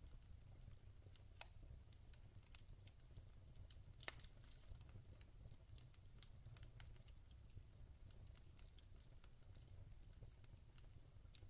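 Log fire crackling: irregular small pops and snaps over a low steady rumble, with one sharper crack about four seconds in.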